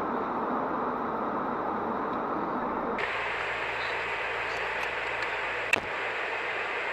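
Steady road and engine noise of a moving car heard through a dash camera's microphone, which changes abruptly about 3 s in as one recording gives way to another. A single sharp click sounds a little before the end.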